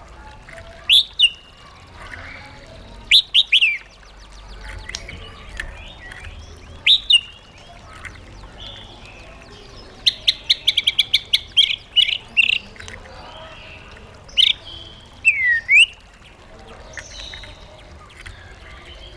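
White-rumped shama singing in loud, clear whistled phrases with short pauses between them, including a rapid run of repeated notes about ten seconds in and downward-gliding whistles near the end.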